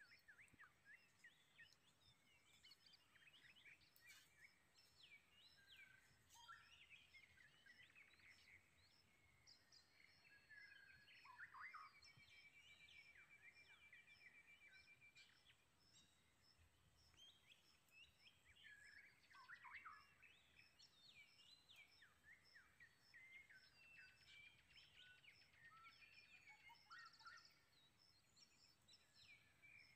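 Faint birdsong: several birds chirping and calling, with a rapid trill about twelve seconds in and a high note repeating about twice a second throughout.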